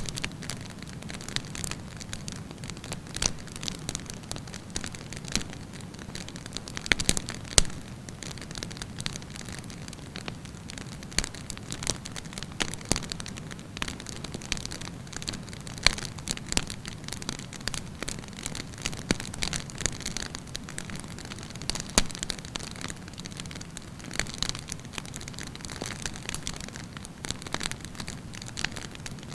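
Wood campfire burning, the logs crackling with irregular sharp pops over a soft low rumble of the flames. A few pops stand out louder than the rest.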